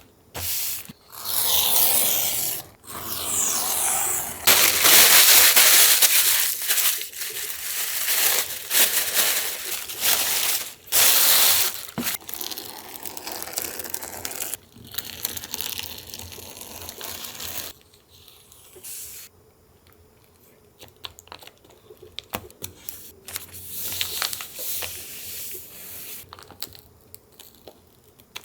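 Paper being torn and crinkled by hand for collage: long noisy rips and rustles, loudest in the first half. After that come quieter small rustles and taps as pieces are handled and laid down.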